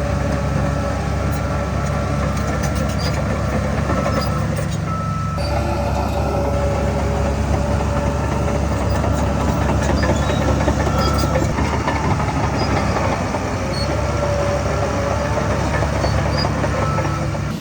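Heavy diesel earthmoving machinery running steadily under load, with intermittent thin metallic squeals over the engine.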